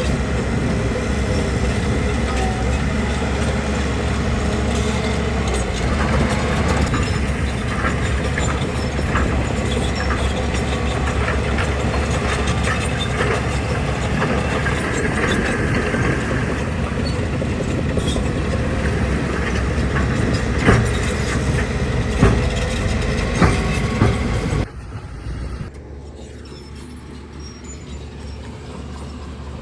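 Crawler bulldozer's diesel engine running with its steel tracks clanking, with a few sharp metallic knocks. Near the end the sound drops abruptly to a much quieter engine hum.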